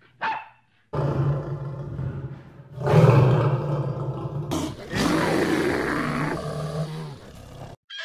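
A short dog bark right at the start, then a lion growling and roaring in long, rough calls that cut off abruptly just before the end.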